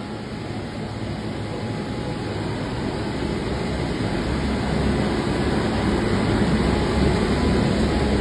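Passenger train hauled by a WAP-7 electric locomotive rumbling along the tracks as it pulls out, its steady rumble growing gradually louder.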